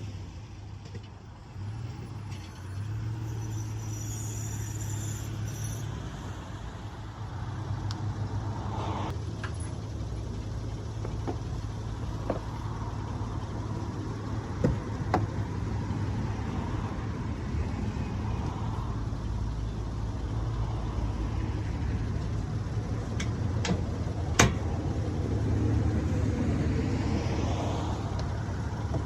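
Motor vehicle engine running steadily, a low hum, with a few sharp knocks over it, the loudest about three-quarters of the way through.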